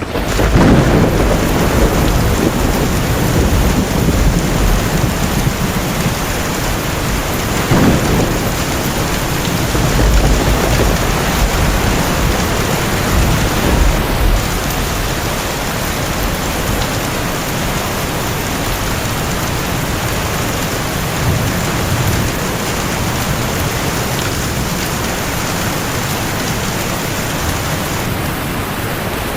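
Heavy rain pouring steadily, with thunder rumbling low several times, most strongly near the start and again around eight to thirteen seconds in.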